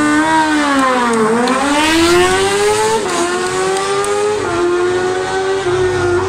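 Engine of a classic Fiat 500 slalom car held at high revs on the start line, then dipping as the clutch is let out and climbing as the car pulls away. The pitch drops at upshifts about three and four and a half seconds in.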